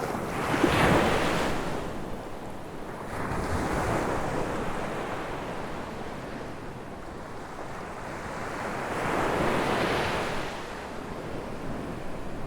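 Ocean waves breaking on a beach: surf washing steadily, swelling three times, loudest about a second in, again around four seconds and near ten seconds.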